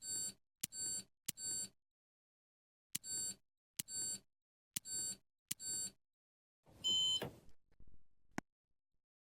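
Candy washing machine control panel beeping as its buttons are pressed: seven short electronic beeps, each with a click of the button, then a longer, different beep about seven seconds in, like a selection being confirmed.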